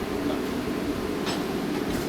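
Steady hum of a running blacksmith's forge, with two sharp metallic clicks, one about a second and a quarter in and one near the end.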